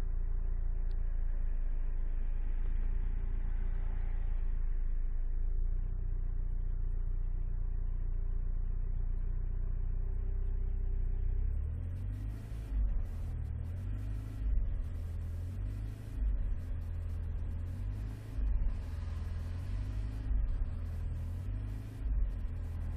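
Alfa Romeo 156 being driven, heard from inside the car: a steady low engine and road rumble that about halfway through turns uneven, swelling and dipping in level every second or two.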